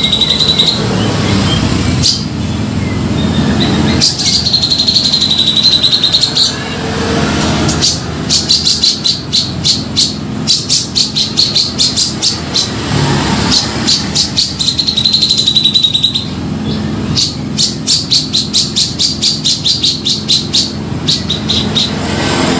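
Cucak jenggot (grey-cheeked bulbul) singing vigorously, repeating a held, wavering phrase that alternates with fast runs of sharp repeated notes, over a steady low background hum.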